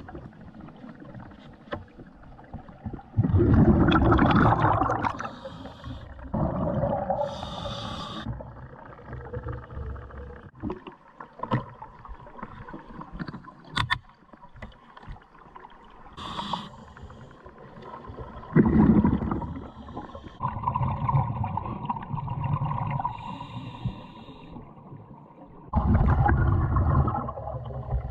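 Car engines and exhausts running and revving in a string of short clips, with loud low surges about three seconds in, near the middle, and near the end.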